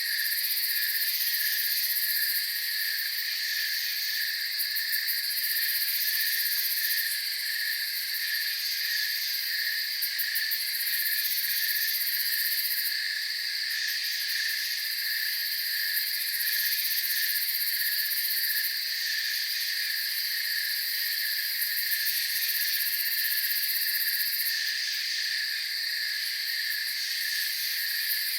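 Night chorus of crickets and other insects: steady rapid pulsing chirps, with a higher shrill buzz that switches on and off every few seconds.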